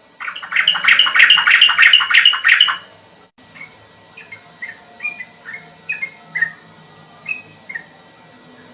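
Yellow-vented bulbul (trucukan) singing: a loud, rapid run of repeated notes, its 'ropel', lasting about two and a half seconds, then softer, scattered short whistled notes that slur downward.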